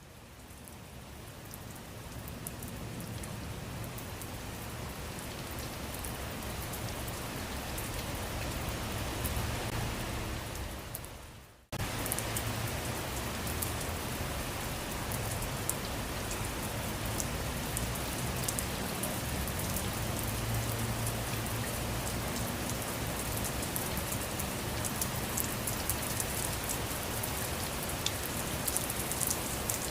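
Steady rain falling on surfaces, a dense hiss with scattered individual drop ticks. It fades in over the first couple of seconds, and about twelve seconds in it drops away briefly and comes straight back.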